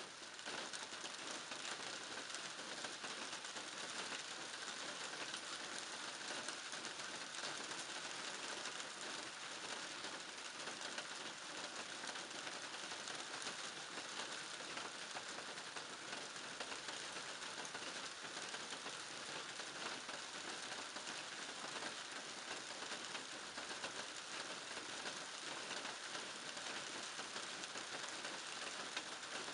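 Steady rain, a dense and even patter of many drops ticking on surfaces.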